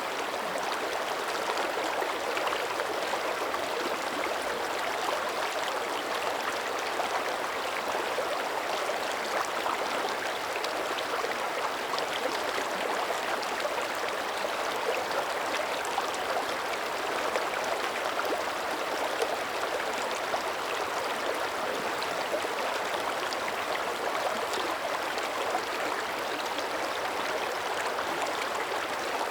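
Mountain creek running steadily over stones, an even rush of water with fine splashing and gurgling, the current still flowing under early-winter surface ice.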